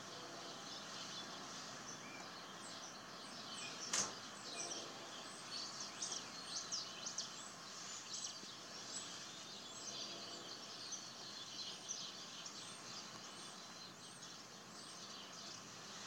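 Small birds chirping many times in quick short calls over a faint steady outdoor background hiss, with one sharp click about four seconds in.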